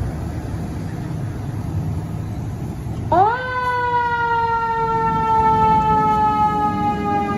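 Fire engine's engine rumbling, then about three seconds in its siren starts: a quick rise in pitch followed by a long, slow wind-down.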